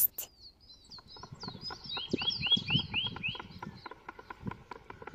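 Small birds chirping: quick high chirps throughout, with a run of five short rising chirps about two seconds in, over faint irregular clicks and low rustling.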